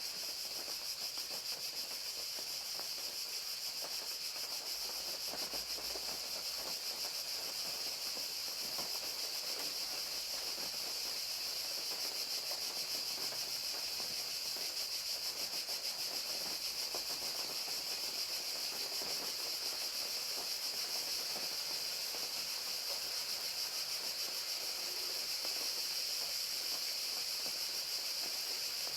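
Crickets chirping in a steady, unbroken chorus, with rain falling.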